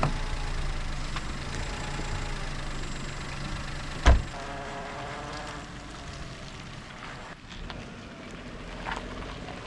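Car driving, with a steady low engine and road hum heard from inside the cabin, and one sharp knock about four seconds in.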